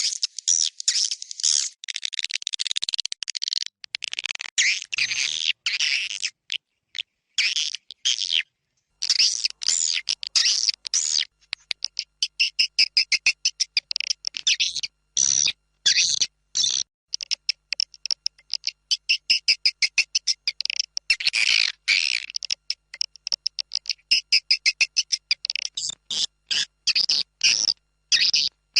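Swiftlet lure recording of edible-nest swiftlet calls: dense high twittering chirps and rapid clicking trills that come in bursts with short gaps between them. This is the external call played outside a swiftlet house to draw in passing swiftlets.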